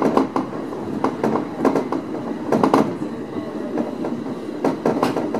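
Three-car electric multiple-unit train running on jointed rails, heard from the driver's cab: a steady rumble with its wheels clicking over the rail joints, the clicks often coming in close pairs.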